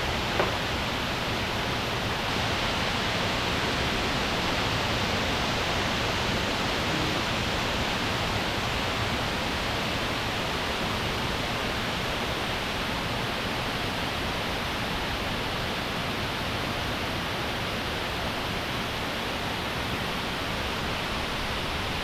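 Waterfall rushing steadily, an even, unbroken wash of falling water, with one short knock just after the start.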